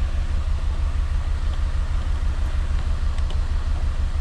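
Peugeot 206 engine idling with a steady, pulsing low rumble while it runs on three cylinders: cylinder 4 is misfiring, which the mechanic suspects comes from no fuel reaching that cylinder. A few faint clicks of plastic being handled.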